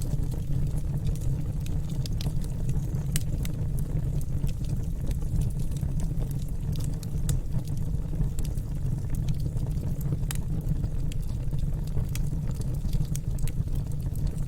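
Wood fire in a fireplace crackling, with frequent irregular sharp pops and snaps over a steady low rumble of the burning fire.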